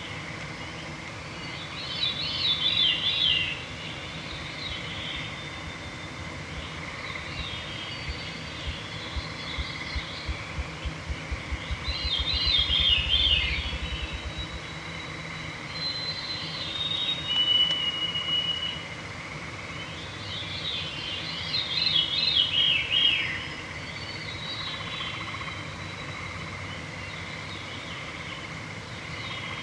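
Veery singing its downward-spiralling, breezy song three times, about every nine seconds, with fainter whistled bird calls around it. Around the middle, a low thumping speeds up until it merges into a short whir.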